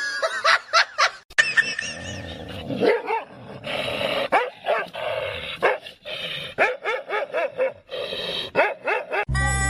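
A dog barking repeatedly in short barks, about one or two a second.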